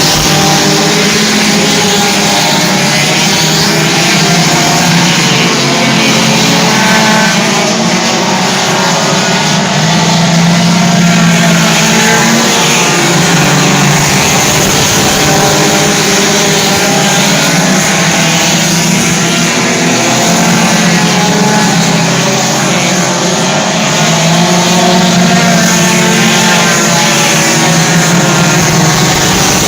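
Race car engines running at racing speed around a dirt oval, several at once, their pitches rising and falling as the cars accelerate, lift for the turns and pass by.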